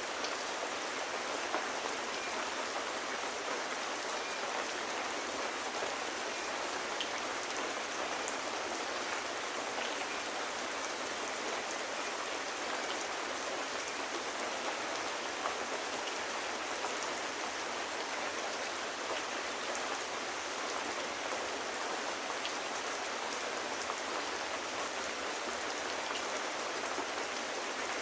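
Steady rain falling, an even wash of noise with scattered light drop ticks, unchanging throughout.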